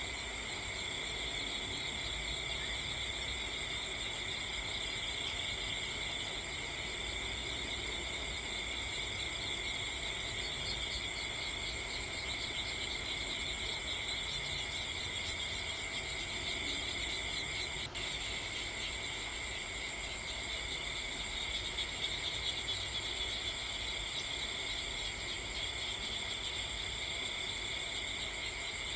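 A steady chorus of insects, crickets by the sound of it, trilling on without pause at several high pitches.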